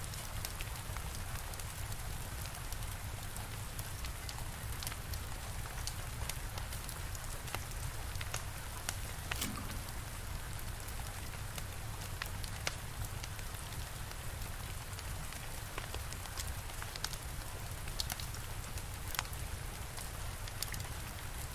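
Steady rain falling, mixed with a wood fire crackling in sharp, irregular pops and snaps.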